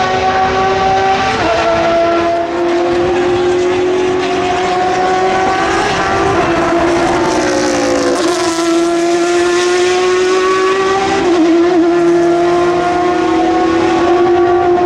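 Open-wheel race cars' engines running hard on track. The pitch climbs steadily and drops sharply at gear changes about a second in and again near the end, with a longer falling sweep in the middle as cars brake or pass.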